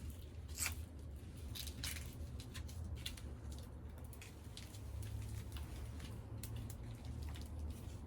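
Wood fire crackling in a Picogrill fire pit, with irregular sharp pops and snaps over a low steady rumble.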